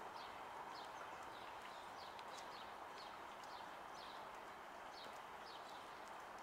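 Faint bird chirping: a steady series of short, high notes, each slurring quickly downward, about two a second, over a steady outdoor hum.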